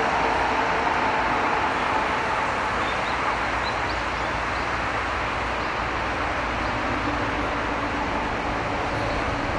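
Steady rushing outdoor background noise, with a faint whine that fades out in the first couple of seconds and a few faint high chirps near the middle.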